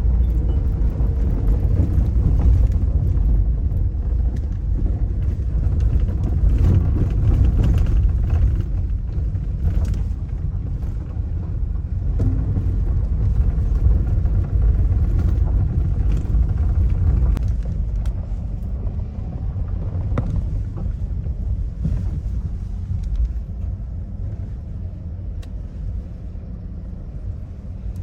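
Car driving, a steady low rumble with scattered knocks.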